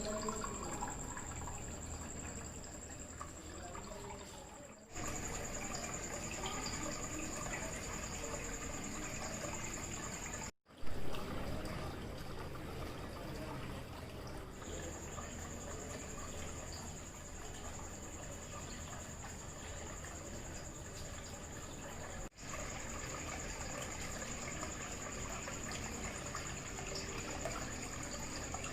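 Water trickling and splashing steadily from a small homemade waterfall fountain, with a faint steady high tone underneath. The sound is broken by a few sudden cuts.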